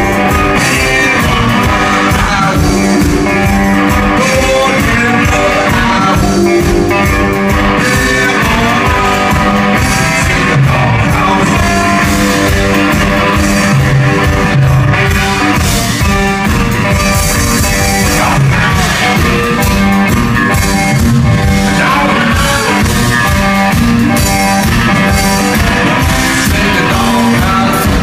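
Live amplified blues boogie: a three-string electric guitar playing a driving, repetitive riff over a steady pounding beat, with no lead vocal. The music breaks off right at the end.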